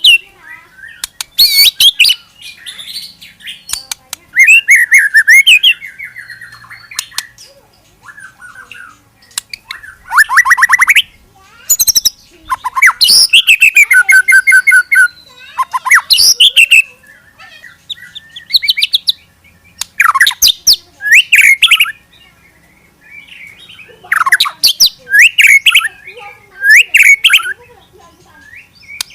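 Murai (white-rumped shama) singing loud, varied bursts of rapid repeated notes, fast trills and whistled glides, broken by short pauses: the rapid-fire 'tembakan' song style used to provoke other murai.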